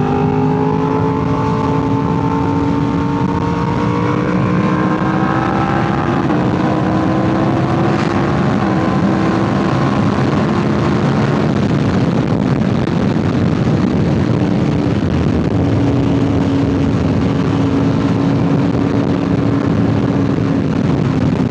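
Yamaha R1's crossplane inline-four running through an SC Project titanium exhaust while being ridden: the engine note climbs steadily for the first several seconds, then settles into a steady cruise with wind rush over the microphone.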